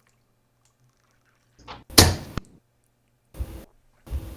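Steel-tip darts striking a dartboard: a few sharp thuds, the loudest about two seconds in, with smaller ones about three and a half and four seconds in.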